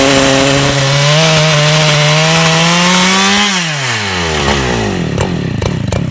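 Chainsaw mill ripping a plank from a log at full throttle. A little after a second in the engine pitch steps up as the cut frees. About halfway through the throttle is let off and the engine winds down to a rattling idle with sharp ticks.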